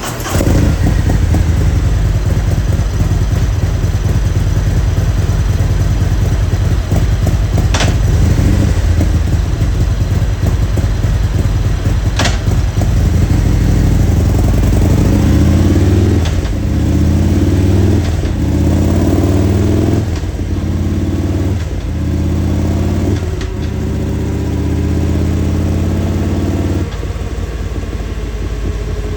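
A Harley-Davidson Milwaukee-Eight V-twin with an aftermarket exhaust, running loud and steady. In the second half the throttle is blipped repeatedly so the revs rise and fall. Two sharp clicks sound about eight and twelve seconds in.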